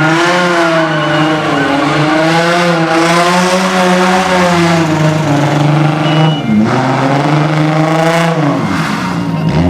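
Car engine held at high revs, its pitch wavering, dropping briefly twice and climbing again, with tyres squealing, as in a burnout or drift.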